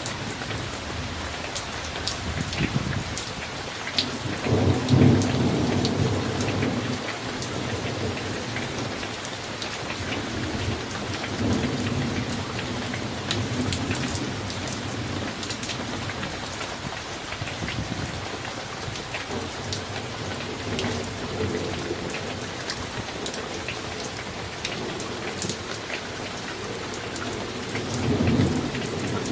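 Summer thunderstorm: rain falling steadily, with many sharp clicks of drops hitting nearby surfaces, and thunder rumbling several times, loudest about five seconds in and again near the end.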